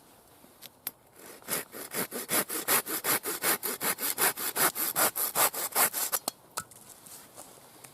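A small folding hand saw cutting through a dry hazel stick in quick, even strokes. It starts about a second and a half in and stops near the end as the end piece is cut off.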